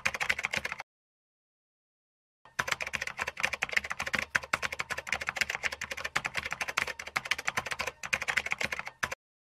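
Typing sound effect: rapid key clicks in two runs, a short one at the start and a longer one from about two and a half seconds in. Each run stops abruptly, with dead silence between them.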